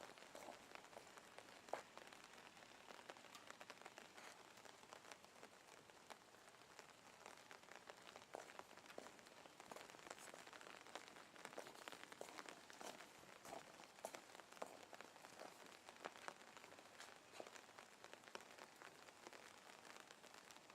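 Faint rain falling, an even hiss dotted with many small, irregular drop ticks.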